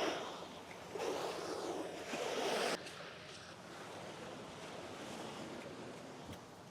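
Sea surf washing on a sandy beach. Two louder rushes come in the first three seconds, the second cutting off abruptly, then a steadier, quieter wash.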